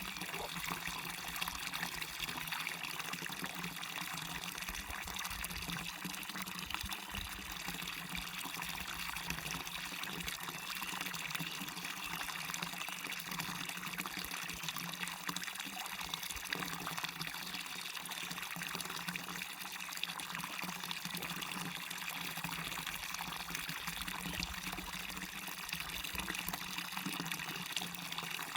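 Waterfall on a stream: water falling and rushing steadily, an even hiss with no breaks.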